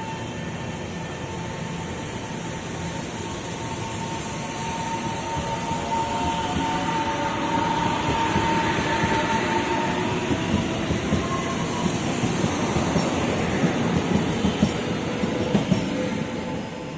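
A train passing through a station, getting louder over the first half. A steady high whine fades about two-thirds of the way in, and rapid wheel clacks over the rail joints take over near the end.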